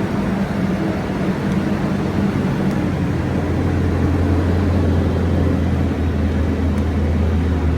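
Diesel engine of a farm loader running steadily, a low drone whose deepest note grows stronger about three seconds in.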